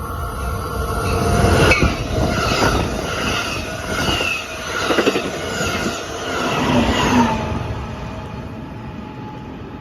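Train passing close by on the rails: a loud rumble and rush with high, ringing tones from the wheels. It builds over the first second, stays loudest for about six seconds, then fades away.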